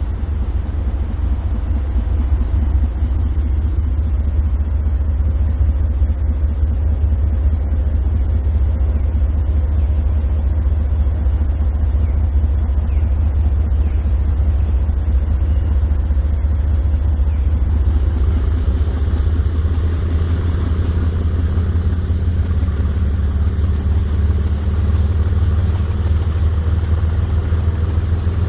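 Diesel freight locomotives running with a steady low drone; about two-thirds of the way through, the engine note climbs and grows stronger.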